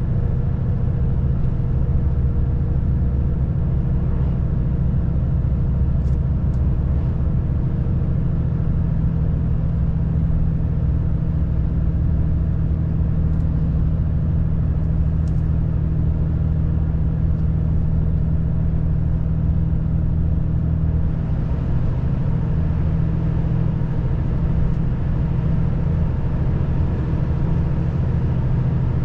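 Volvo FH540 truck's 13-litre inline-six diesel running steadily under way, a constant low drone with road noise.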